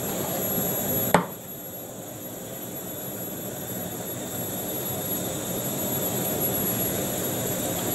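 Water chestnuts and bamboo shoots frying in a pot on a gas hob: a steady rushing noise, with one sharp click about a second in.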